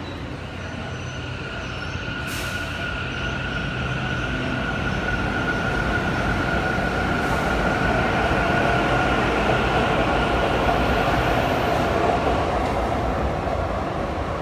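Taichung MRT metro train pulling out of a station: a steady electric motor whine over wheel-on-rail noise, growing louder over about ten seconds and easing a little near the end.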